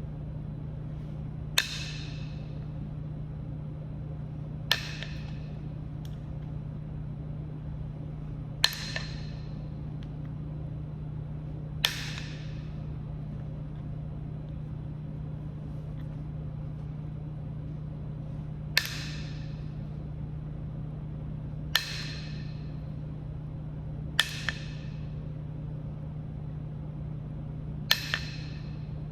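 Flintknapping on Kentucky hornstone: sharp clicking strikes, each ringing briefly, as flakes are driven off the stone. The strikes come one at a time, a few seconds apart, with a quick double strike twice near the end.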